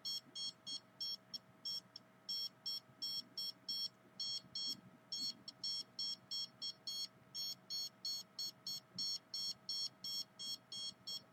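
A handheld RF meter's alarm beeping rapidly: short high-pitched beeps about three to four a second, in runs broken by brief pauses. A faint steady hum runs underneath.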